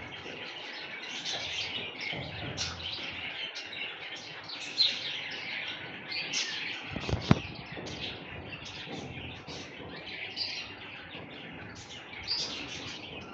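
Budgerigars chattering: a continuous run of quick, high chirps and warbles, with a sharp knock about seven seconds in.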